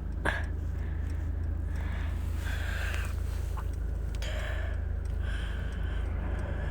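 Steady low rumble of a car's road and engine noise heard inside the cabin while driving on a snowy road, with one sharp click about a quarter second in.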